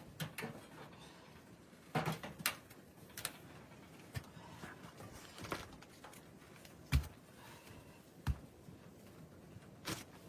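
Scattered knocks and clicks, about ten short separate thuds and clatters as of things being handled, with the loudest a little before seven and at about eight seconds in.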